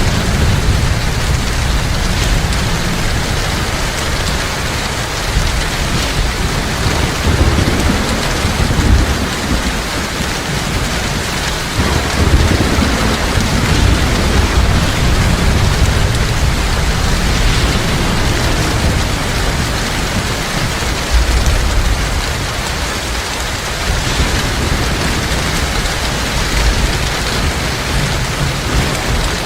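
Heavy rain falling steadily as a dense hiss, with low rolling rumbles of thunder swelling up a few times, strongest about a third of the way in.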